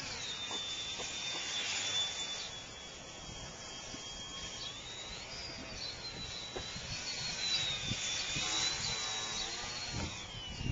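Small electric radio-controlled helicopter's motor whining, its pitch rising and falling as the throttle changes, with wind buffeting the microphone.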